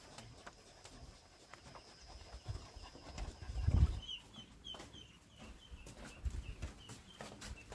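Chickens peeping: short high calls repeating two or three times a second from about halfway in. Low thumps and knocks come throughout, the loudest just before the peeps begin.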